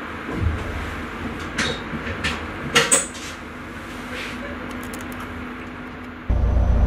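Several sharp clicks and knocks inside a train driver's cab over a low rumble, the loudest pair about three seconds in. Near the end, a much louder low hum comes in suddenly.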